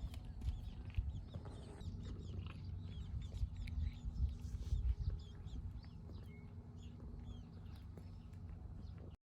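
Birds chirping and calling in many short, quick notes over a steady low rumble.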